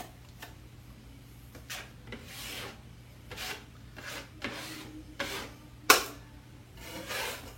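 Drywall knife scraping quick-set joint compound in a series of short strokes, about eight in all, with one sharp knock of the knife about six seconds in.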